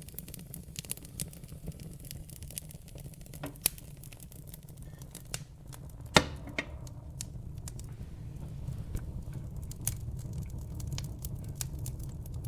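Wood fire in a fireplace crackling, with irregular sharp pops, the loudest about six seconds in, over a steady low rumble.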